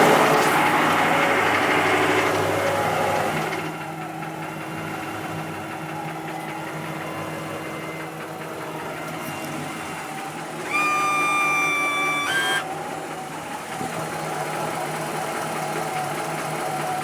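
Ford 302 V8 engine running, louder for the first three seconds or so and then settling to a quieter idle, with a knock that the owner cannot place. About eleven seconds in, a steady high horn-like tone sounds for about two seconds.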